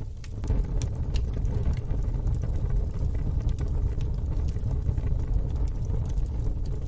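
Wood fire in a fire pit burning with scattered crackles and pops over a steady low rumble.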